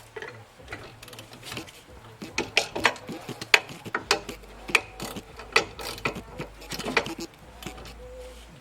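Ratchet wrench clicking through a run of short strokes as a ball-joint pinch bolt is tightened up toward its 76 ft-lb torque. The clicks come thickest from about two seconds in to about seven.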